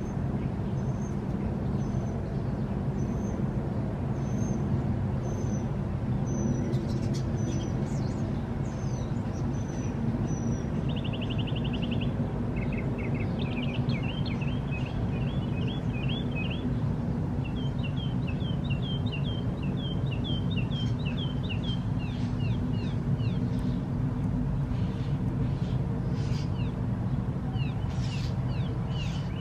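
Small songbirds calling over a steady low rumble: a thin high note repeated a little faster than once a second, then a short buzzy trill and long runs of quick repeated chirps.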